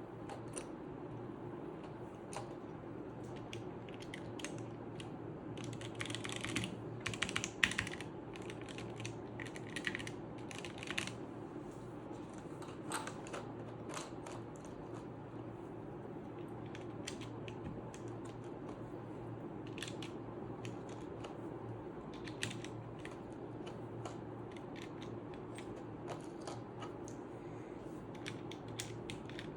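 Plastic keycaps being pressed onto the switches of a mechanical keyboard: irregular sharp clicks and clacks, bunched most thickly about a quarter and a third of the way in, over a steady low hum.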